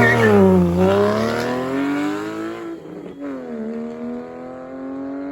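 Car engine accelerating hard, its pitch climbing, dropping briefly at a gear change about three seconds in, then climbing again as it fades away.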